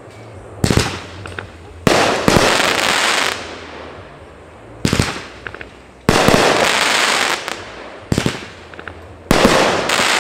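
Consumer aerial fireworks going off: about six loud bangs, a second or two apart, each trailing off in a long rumble, with small crackles in between.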